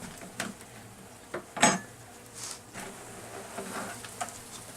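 Honeybees buzzing while the hive and comb are handled, with a few sharp knocks and clicks; the loudest knock comes about a second and a half in.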